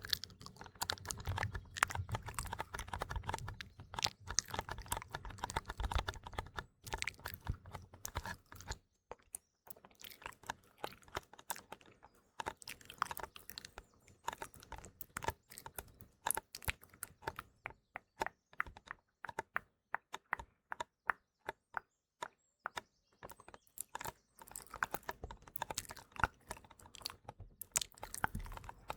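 Close-miked ASMR mouth sounds: irregular wet clicks and lip smacks. They come in quick runs for the first eight seconds or so, with some soft low thuds, then more sparsely with short gaps.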